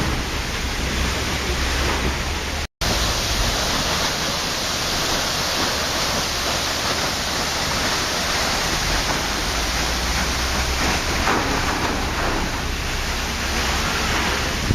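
Waterfall: a steady, dense rush of falling water, cut by a brief moment of silence about three seconds in.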